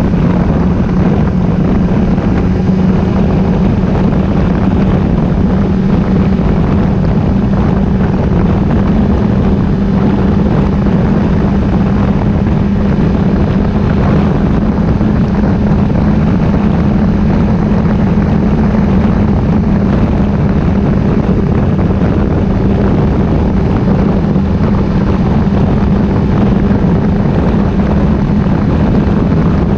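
Motorcycle engine running at a constant, steady pitch over a loud, even rush of noise, as when cruising at steady speed.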